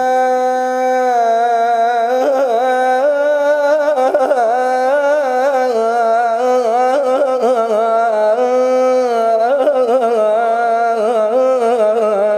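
A male munshid chanting one long wordless melismatic line in the style of Iraqi popular poetry, a solo voice. It holds a steady note for about two seconds, then moves through wavering ornamented turns, and breaks off at the end.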